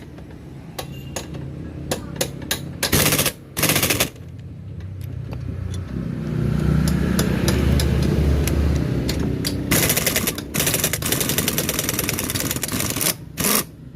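Impact wrench hammering in several short rattling bursts, loosening the engine support bolts. A low rumble swells and fades in the middle.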